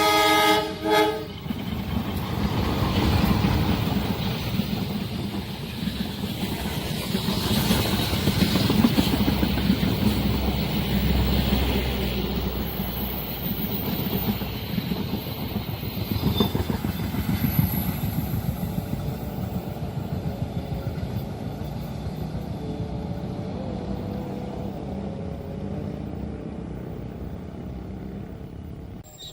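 A train's horn sounding a chord that stops about a second in, followed by the long rumble and clatter of a train passing on the rails, slowly fading near the end.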